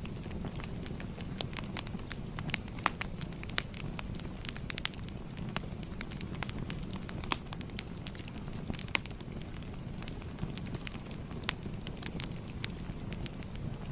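Wood fire crackling: a steady low rumble of flames with frequent irregular snaps and pops, a few of them louder.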